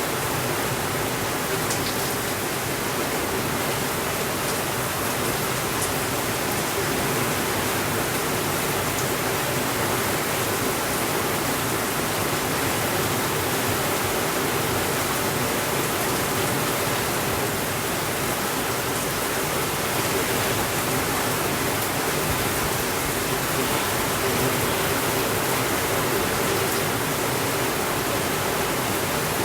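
Steady rainfall: an even, unbroken hiss that holds the same level throughout, with a few faint clicks.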